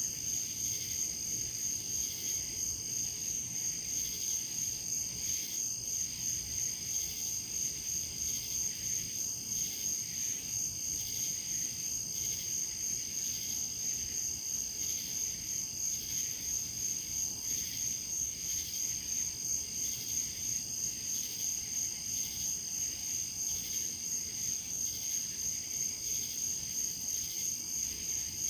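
A chorus of crickets chirring steadily in a high, even pitch, pulsing about two to three times a second.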